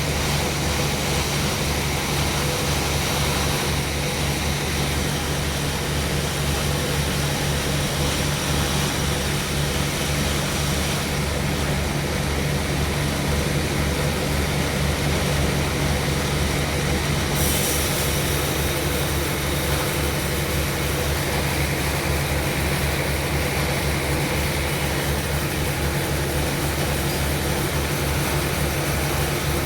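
Sawmill machinery running steadily, a continuous low engine drone with a rapid pulsing beat.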